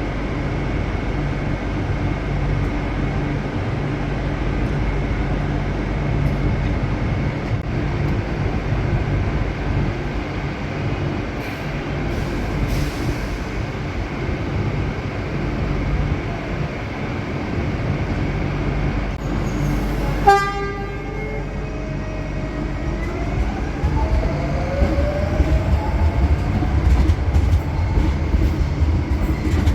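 Passenger train running with a steady hum, sounding one short horn toot about two-thirds through. Afterwards a rising whine and a growing low rumble follow as the train speeds up.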